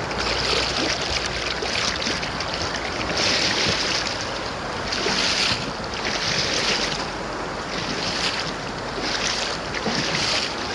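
River current rushing and splashing around a kayak, the water noise swelling and fading every second or two.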